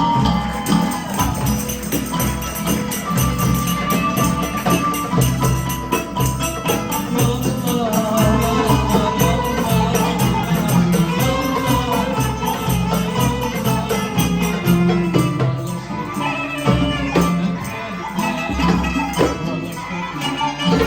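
Live band music in a traditional style: a fast, steady percussion pulse with jingling hand percussion under a wavering melody line.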